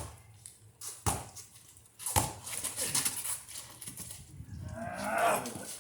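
Basketball thumping on the court three times, about a second apart, then a drawn-out distant voice near the end.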